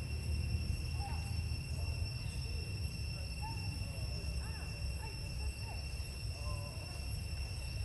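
Steady outdoor background: a constant high insect buzz at several even pitches over a low rumble, with a few faint short rising and falling calls.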